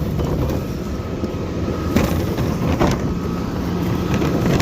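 CNG side-loader garbage truck engine running steadily, with a faint steady whine over it. Two sharp knocks come about two seconds in and just under three seconds in.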